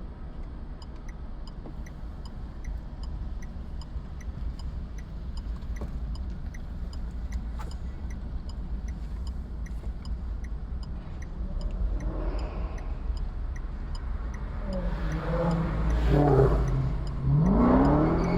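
Steady low rumble of a car driving on city streets, with a faint regular ticking. In the last few seconds a vehicle engine revs and accelerates close by, its pitch climbing, and this is the loudest part.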